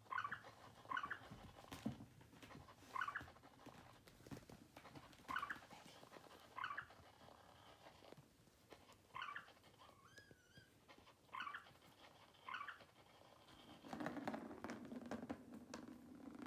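Faint short high squeaks, mostly in pairs, recurring about every two seconds, with a brief wavering squeak about two-thirds of the way in. Near the end a cat's steady low purr sets in.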